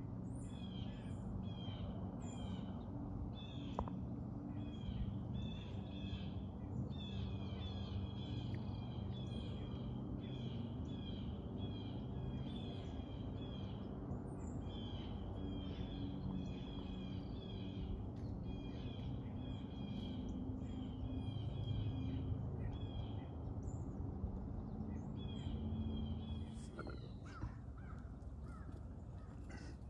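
Wild birds calling over and over in quick short high notes, nearly without pause until near the end, over a steady low rumble.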